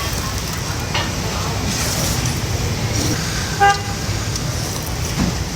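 Street traffic running steadily, with one short vehicle horn toot about three and a half seconds in.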